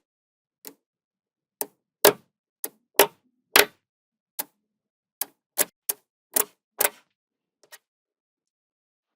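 Small magnetic balls clicking as they snap onto one another: about a dozen sharp clicks at uneven intervals, stopping about three quarters of the way in.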